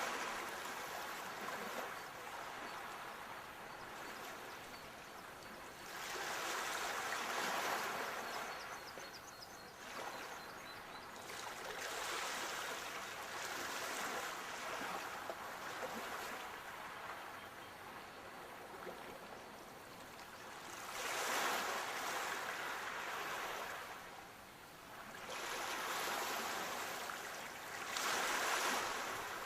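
Sea waves breaking and washing in, the surf rising and falling back every several seconds. The biggest surges come about a quarter of the way in, about three-quarters of the way in, and near the end.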